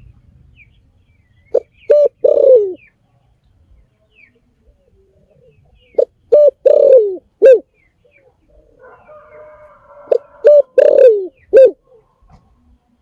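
Spotted dove cooing: three phrases about four seconds apart, each of three or four low coos with one longer note that falls in pitch. Faint chirps of other birds come in between.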